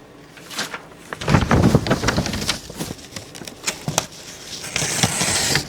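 Steel knife blade worked against a sharpening stone: scraping strokes mixed with irregular knocks and handling clatter, with a longer high scraping stroke near the end.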